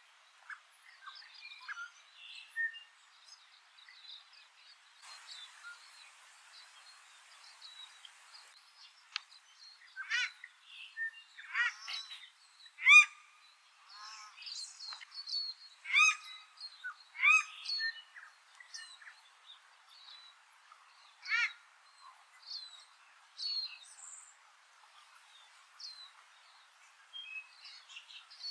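Small birds chirping, then from about ten seconds in a paradise shelduck gives a series of loud, shrill, ringing calls at irregular intervals. Small birds keep chirping underneath.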